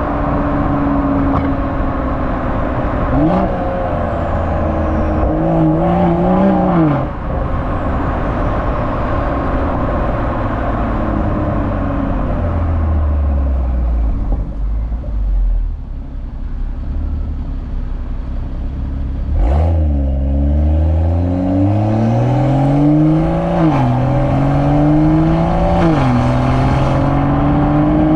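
BMW M340i's B58 turbocharged straight-six exhaust. The revs rise and fall, then the engine runs at low revs for several seconds. About two-thirds through there is a sharp crack, then it pulls hard, rising in pitch and dropping back at each upshift, three or four times.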